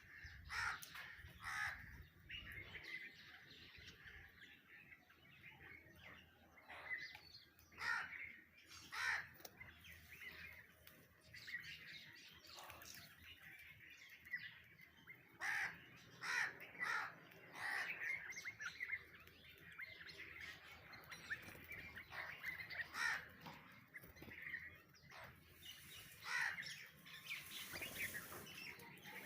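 Birds calling: irregular, repeated harsh caw-like calls mixed with shorter chirps.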